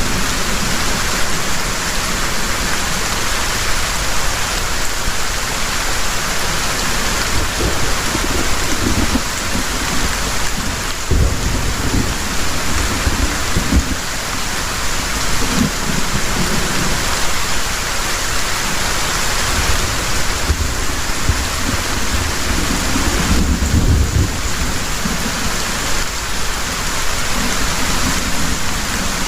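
Heavy rain falling steadily in a loud, even hiss, with low thunder rumbles that swell and fade several times.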